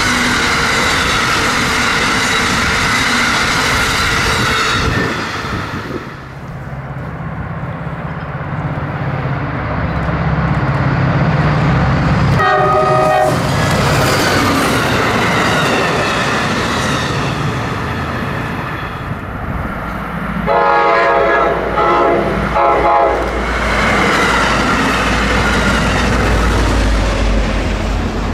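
An Amtrak train behind an electric locomotive rushing past, its cars and wheels clattering on the rails. Then a diesel locomotive's low engine drone as a commuter train comes by; its horn gives one short blast near the middle and, some seconds later, a quick string of short blasts, followed by the rumble of the train passing.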